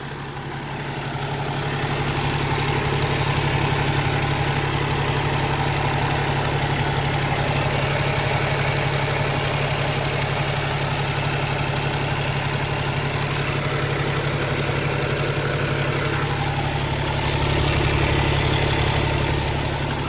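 Cummins X15 inline-six diesel in a Peterbilt 579 idling steadily, a low even hum that grows louder over the first two seconds.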